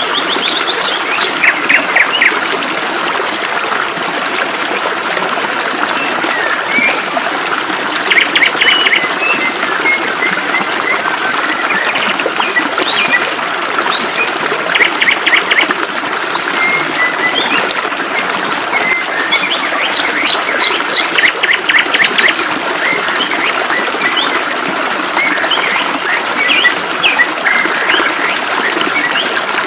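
Several birds chirping and trilling over the steady hiss of flowing water.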